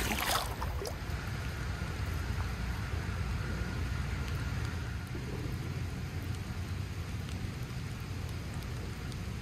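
Steady rain falling, an even hiss without rhythm, after a brief knock as the camera is set down at the start.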